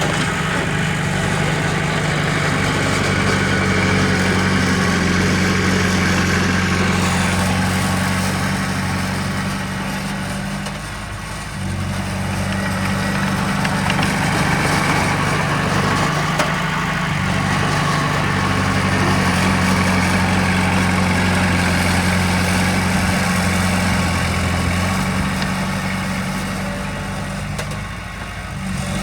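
Heavy diesel engine of earthmoving machinery running steadily at a low, even note. Its level dips briefly twice, once about a third of the way in and again near the end.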